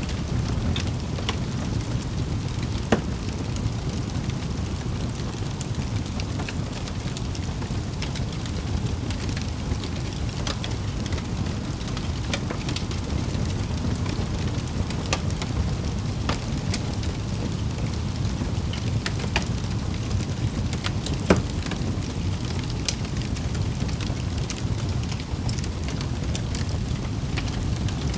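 Wood fire in a fireplace crackling steadily, with a low rumble of burning under irregular sharp pops and snaps. Two pops stand out, one about three seconds in and one a little after twenty seconds.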